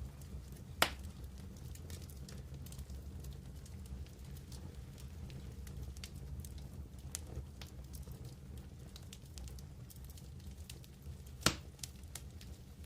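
Wood campfire crackling with scattered small snaps over a steady low rumble. There are two sharp, loud pops, one about a second in and one near the end.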